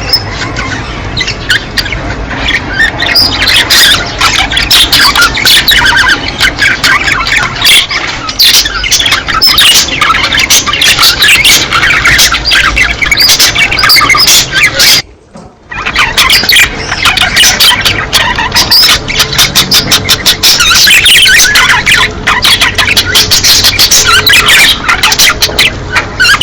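A flock of budgerigars chattering, warbling and squawking continuously in breeding-season calls, breaking off for about a second midway.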